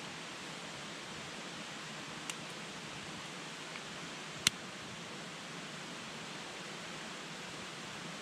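Campfire burning with a steady hiss, its wood popping sharply three times; the loudest pop comes about halfway through.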